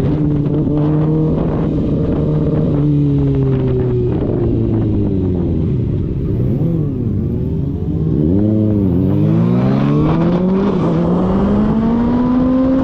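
Kawasaki ZX-6R's inline-four engine running under way with a steady note, then two quick throttle blips near the middle, and the engine note rising as the bike accelerates near the end.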